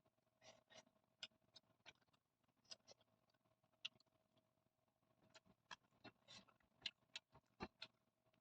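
Faint, irregular wet clicks and smacks of close-miked eating: chewing and mouth sounds over soaked rice and side dishes, over a faint steady hum.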